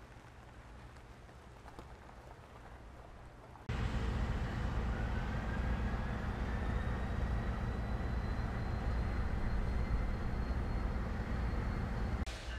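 Train rumbling: a faint low rumble, then about four seconds in a much louder low steady drone starts abruptly, with a faint thin whine rising slightly above it.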